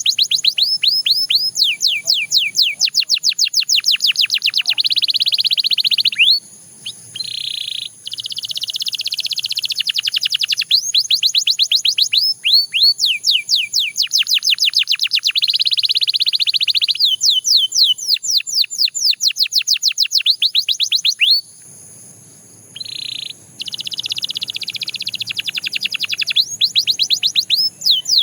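A Belgian canary singing: long rolls of rapid, repeated falling notes, trill after trill. The song breaks off briefly twice, about a quarter of the way in and again about three quarters of the way in.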